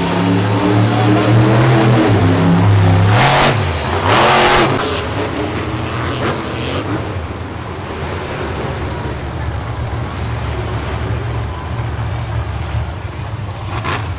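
Monster truck engine revving hard, its pitch dropping sharply twice about three and four seconds in with two brief noisy bursts, then running on more steadily at a lower pitch.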